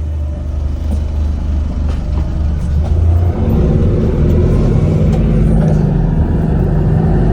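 Volvo B5LH hybrid bus drivetrain with its four-cylinder diesel running, heard from on board. Its low steady note steps up to a higher, louder pitch about three seconds in, as it comes under load.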